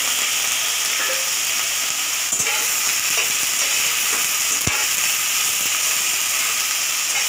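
Onions, garlic and freshly added tomato wedges sizzling steadily in hot oil in a kadai while being stirred with a spatula. A couple of light knocks sound about two and a half and nearly five seconds in.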